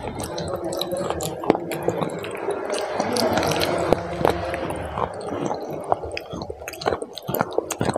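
Close-miked biting and chewing of chocolate bars, with many short, sharp clicks scattered through.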